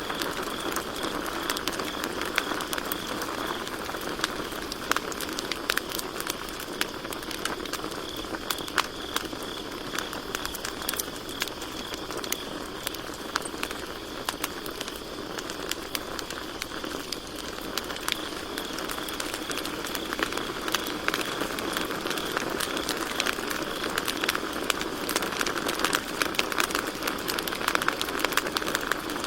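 Campfire crackling, with frequent sharp pops and snaps over a steady hiss of burning wood. Crickets chirp in a high, even trill that fades in the middle and comes back near the end.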